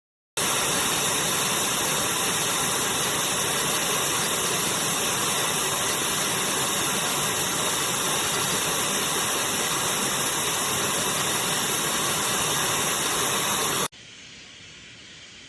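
Miele Blizzard CX1 bagless canister vacuum running: a loud, steady noise that starts abruptly just after the start and drops suddenly to a much quieter level near the end.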